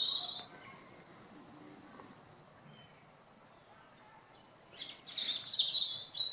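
Small garden songbirds singing: a high trilling phrase ends just after the start, then a quiet stretch, and a louder run of varied song phrases starts near the end.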